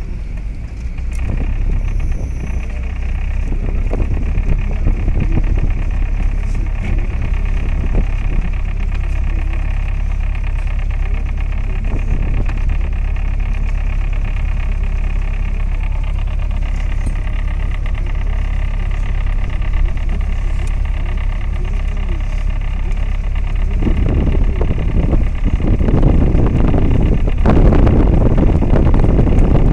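Tour boat's engine running steadily, a low rumble with a steady hum on top; near the end a rushing noise of wind on the microphone and water builds and grows louder.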